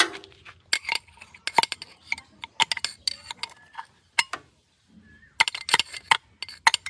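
Metal parts and hand tools clinking and tapping together during work on a tractor's diesel filter: an irregular run of sharp clinks, with a short lull a little past the middle and a quick cluster near the end.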